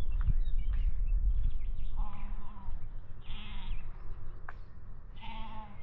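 Farm animals bleating three times, each call about half a second long, at about two, three and five seconds in. A low rumble is strongest in the first two seconds.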